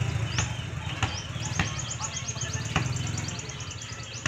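A small bird chirping in a fast run of short high notes, about ten a second, starting about a second in. Under it runs a steady low hum, with a few sharp clicks.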